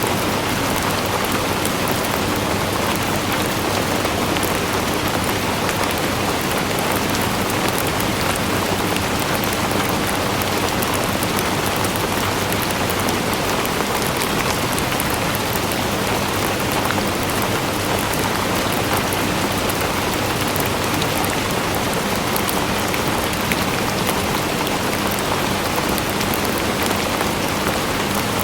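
Steady rain falling and pattering on a surface, an even dense hiss with fine droplet crackle that does not let up.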